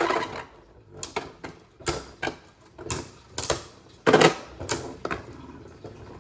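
Two spinning Beyblade Burst tops, Venom Devolos and Command Dragon, clashing in a plastic stadium: irregular sharp plastic clacks and rattles, with the loudest hit about four seconds in.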